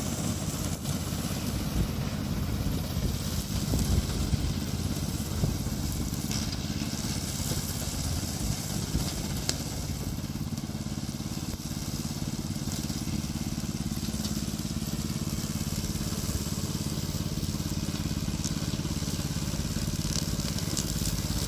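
Remote-controlled lawn mower's Yamaha petrol engine running steadily at an even speed.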